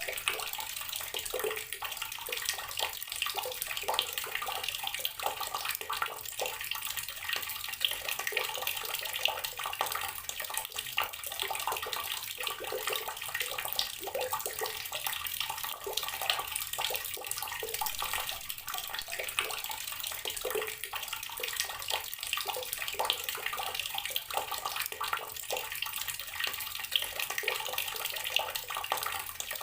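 Tap water pouring steadily into a container of water, with continuous splashing and bubbling full of small irregular spatters.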